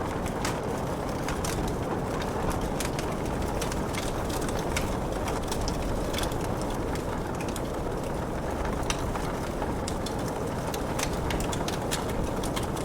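Wood fire crackling, with many scattered sharp pops and snaps over a steady hiss of rain.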